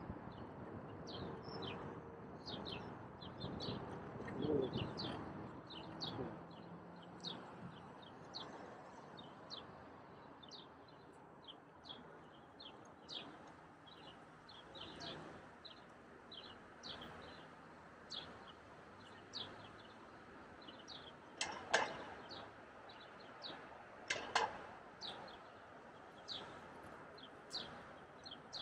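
Small birds chirping: many short, high chirps at an uneven pace, with two louder calls about three-quarters of the way through, over low background noise.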